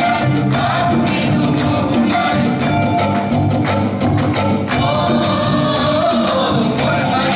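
Live folk song: singing over instrumental accompaniment with a steady percussive beat.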